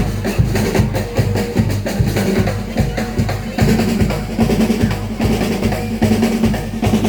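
Live drumming on snare and bass drums: a fast, steady beat with rolls.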